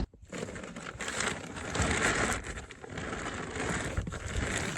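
Scraping and rustling as the folded plastic kayak and the rear seat are pushed and shifted in the car's cargo space, swelling and fading in uneven bursts, loudest about two seconds in.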